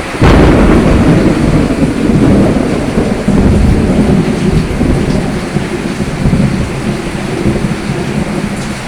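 Steady rain, with a sudden deep rumble breaking in about a quarter second in and slowly dying away over the following seconds.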